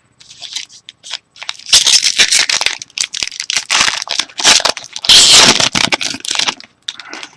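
Foil trading-card pack wrapper being torn open and crinkled by hand, a dense run of sharp crackles and rustling, loudest through the middle.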